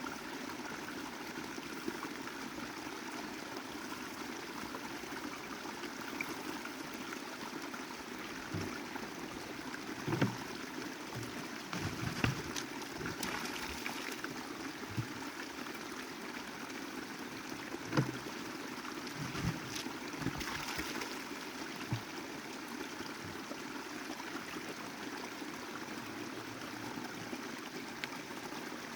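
Snowmelt mountain creek flowing steadily, with scattered low knocks and bumps in the middle stretch.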